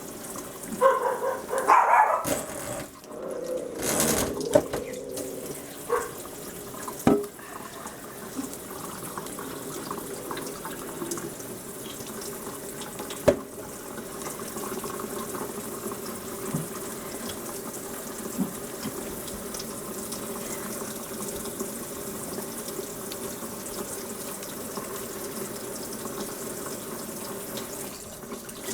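Tap water running steadily. Several sharp knocks and louder sounds come in the first few seconds, and one more knock about thirteen seconds in.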